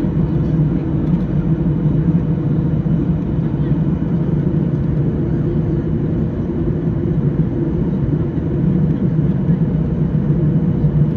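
Steady engine and airflow noise inside the cabin of a Boeing 737-800 in flight, a low rumble with a faint steady hum above it.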